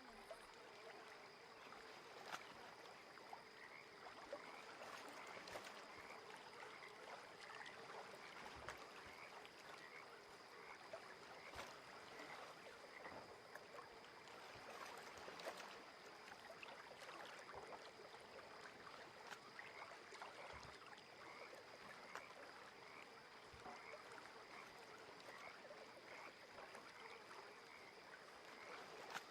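Faint lakeside chorus of frogs calling over gentle water, with a steady high insect-like hum and a run of small, evenly repeating chirps throughout.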